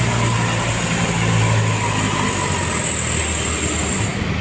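Heavy vehicle's diesel engine pulling up a steep climb, a steady low drone.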